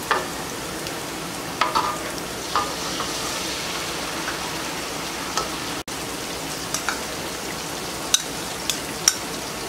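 Onion frying in a wok, a steady sizzle, as ají amarillo paste is poured in and stirred with a wooden spoon, with a few light knocks against the pan.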